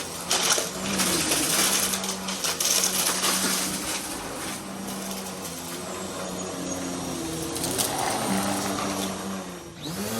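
Vacuum cleaner running, its motor hum shifting in pitch as it is pushed quickly back and forth, with scattered clicks and rattles. The sound drops away sharply near the end, then the motor pitch swoops back up.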